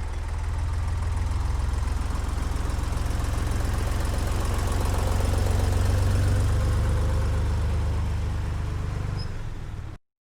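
A 1972 tractor's engine running steadily with a fast, even low beat. It grows louder in the first second, eases off near the end and cuts off abruptly.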